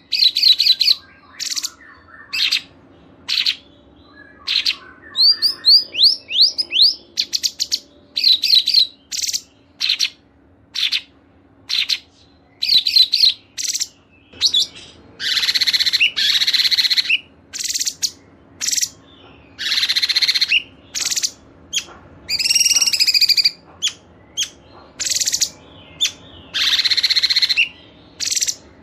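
A mix of songbird calls from a masteran training recording, including canary and lovebird: sharp, high chirps with short gaps between them, a run of quick falling whistles about five seconds in, and longer dense trills every few seconds.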